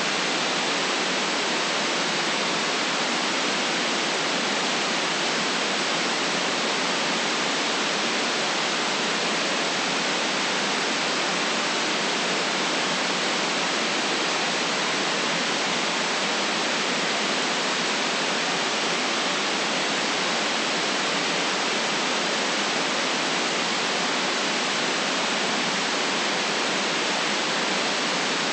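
Steady electronic white noise: an even, unchanging hiss with no bass rumble and no top end, at one constant level with no events in it.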